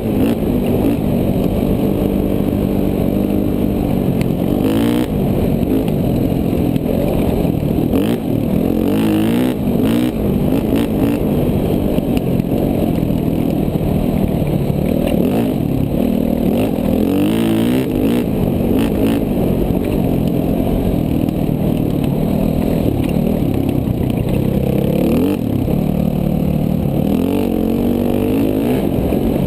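KTM 450 dual-sport motorcycle's single-cylinder four-stroke engine revving up and down as the bike is ridden on a dirt trail. A few short clatters cut through, around five seconds in and again around eight to ten and seventeen seconds in.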